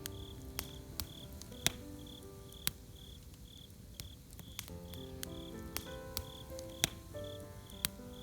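Campfire wood crackling, with sharp pops scattered through, over a cricket chirping steadily about twice a second. Soft music of long held notes plays underneath.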